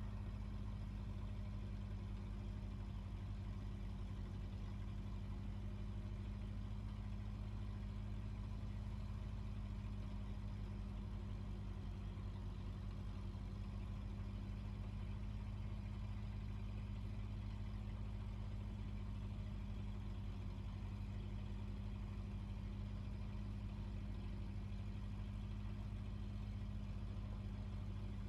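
A fishing boat's engine running steadily: a constant low drone that does not change in pitch or level.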